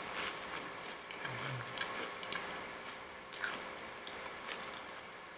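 A person eating close to the microphone: soft wet chewing broken by a few sharp crunches as a cracker-like bite topped with green spread is bitten and chewed.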